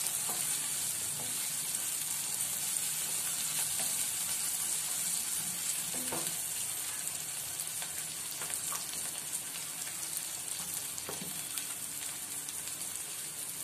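Chopped onion, tomato and roasted peanuts sizzling steadily in hot oil in a kadhai, with a few scrapes and taps of a wooden spatula stirring them.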